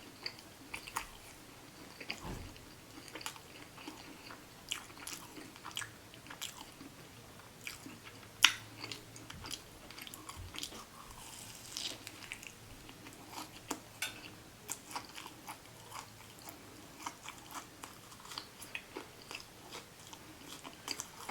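Close-miked chewing and biting of a fried chicken sandwich on glazed donut buns: a scatter of short, moist mouth clicks and smacks, with one sharper click about eight and a half seconds in.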